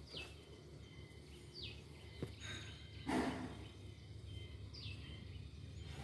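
A bird repeating a short falling whistle every second or two over a faint steady insect trill, with a click about two seconds in and a brief scuffing noise about three seconds in.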